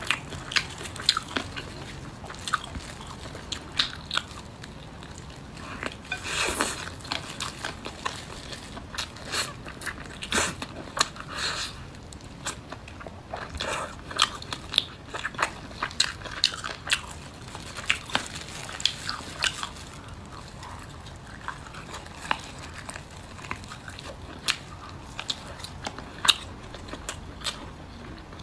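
Close-miked eating of roast chicken wings: chewing and biting, with a steady run of small wet clicks and crunches as meat is eaten off the bone.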